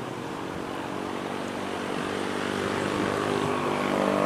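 Diesel-hauled passenger train passing: a steady engine drone over track rumble, growing louder, then cut off abruptly at the end.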